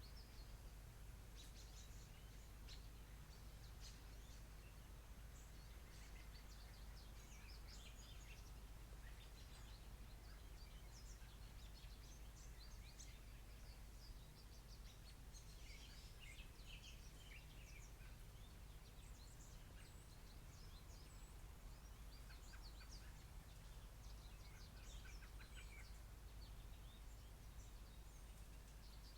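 Faint birdsong: short, high chirps from several small birds, scattered throughout, over a steady low hum.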